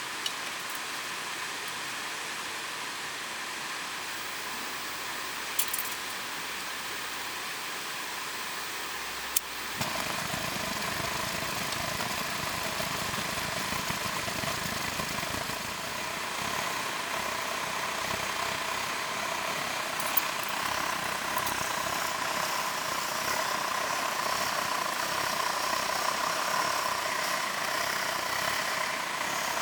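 Steady hiss, then a sharp click about nine seconds in, after which a car engine runs steadily at idle.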